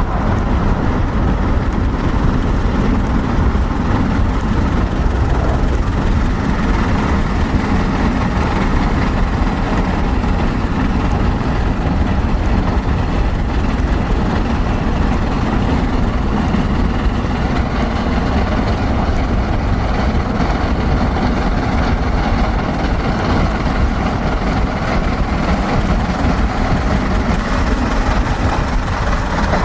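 Steady rumble and road noise of a vehicle in motion, with no distinct beat or whistle standing out.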